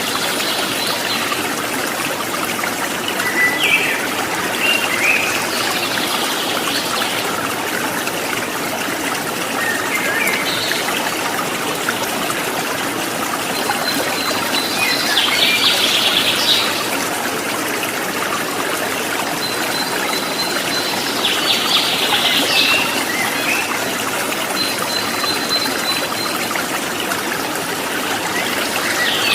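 Water trickling and babbling steadily, like a small stream, with bird chirps breaking in every few seconds. A few of the calls are led by a thin, high, held whistle.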